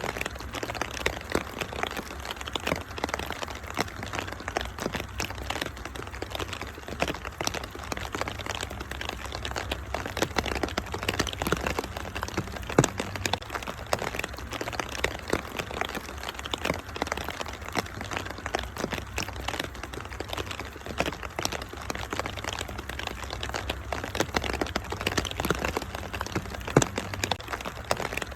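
Wood fire crackling in a fireplace, with many sharp pops and snaps over a steady hiss of rain and a low steady rumble underneath.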